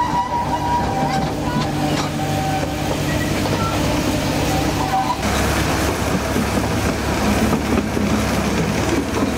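Narrow-gauge train hauled by a Hunslet diesel locomotive running along the track, heard from on board: a steady engine drone and wheel rumble with thin whining tones above them. About five seconds in, the rumble grows heavier and rougher.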